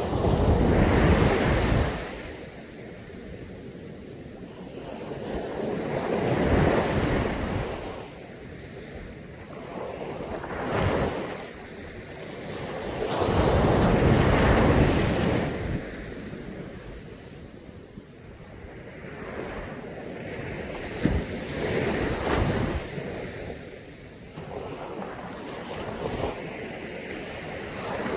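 Caribbean Sea waves breaking and washing up on a beach, several surges that swell and fade every few seconds, with wind on the microphone.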